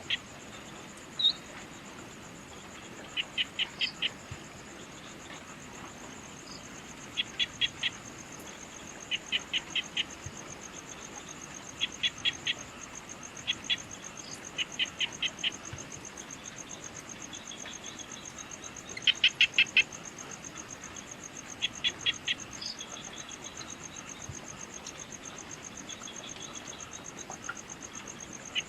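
Evening nature ambience: a steady high insect trill, with short runs of three to five quick chirps about every two to three seconds and a few single higher chirps.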